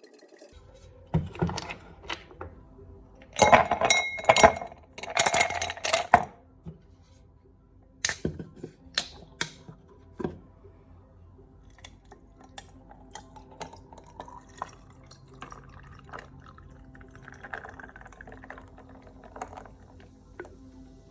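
Kitchen handling sounds: dishes, glass and cutlery clinking and knocking. About three and a half and five seconds in come two loud rushes of noise, each about a second long.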